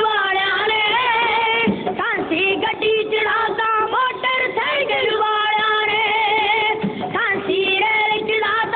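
Punjabi dhadi song: a sung melody with heavy vibrato over a steady held drone note, loud and continuous.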